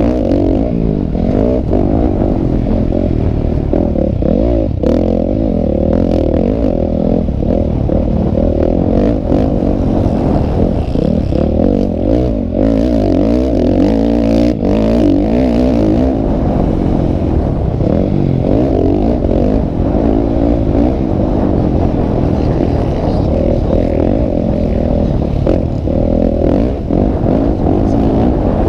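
Motocross dirt bike engines revving, their pitch rising and falling over and over as the bikes race, with scattered sharp clicks.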